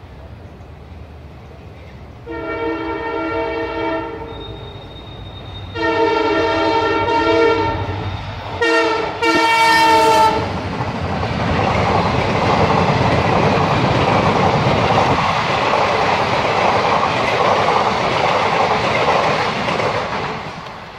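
Passenger train passing close by. The locomotive horn sounds in long blasts over the first ten seconds, ending in a run of short toots, and then the train's running noise goes past, fading near the end.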